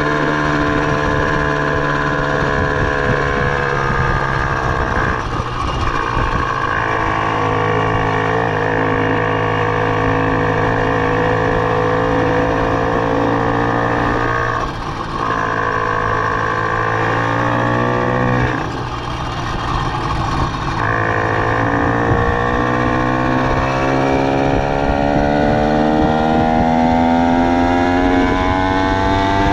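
Minarelli vertical-cylinder two-stroke engine on a motorized bicycle, running under throttle. Its note holds steady, drops briefly three times, then climbs steadily over the last several seconds as it speeds up.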